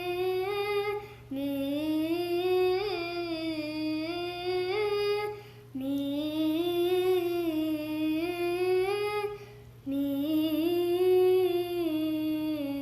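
A child humming a wordless melody in long phrases, with three short breaks for breath.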